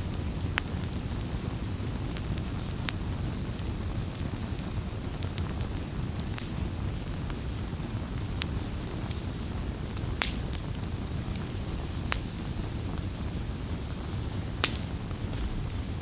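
Wood campfire crackling: a steady low rumble of burning, with irregular sharp pops and snaps. A louder pop comes about ten seconds in and another near the end.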